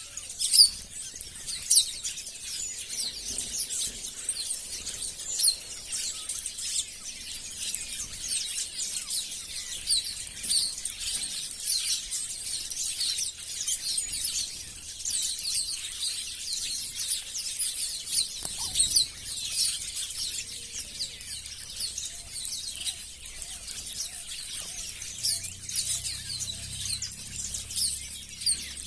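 A flock of small birds chirping continuously, many short high chirps overlapping.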